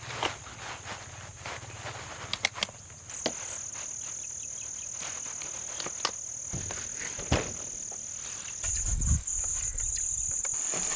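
Insects trilling outdoors: a steady high-pitched note that starts about three seconds in and holds. Scattered clicks and knocks, and a brief low rumble near the end.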